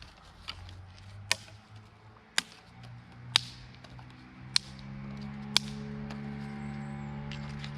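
Five sharp strikes, each about a second apart. About halfway through, background music with long held notes comes in.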